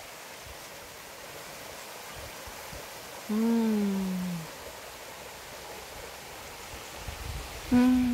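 A person's appreciative closed-mouth 'mmm' while tasting a hot dog: one falling hum of about a second a little over three seconds in, and a shorter one near the end, over a steady outdoor hiss.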